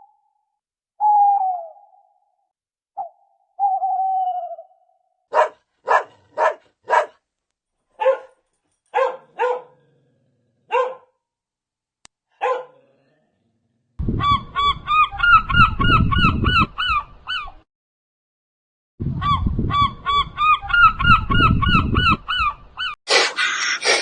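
A sequence of animal calls: a few falling whistled notes, then a string of short honks, then two long runs of rapid, repeated honking calls over a low rumbling noise.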